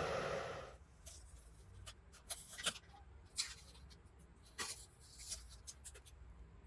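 Hairdryer blowing steadily, then switched off under a second in. Light scratching and clicking of small parts being handled follows.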